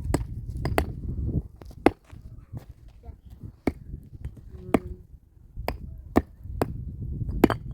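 Wood being struck hard again and again: about ten sharp, separate knocks at an uneven pace, over a low rumble.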